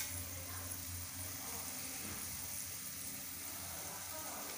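Onion and tomato masala frying gently in oil in a nonstick pan: a faint, steady sizzle, with one brief tap right at the start.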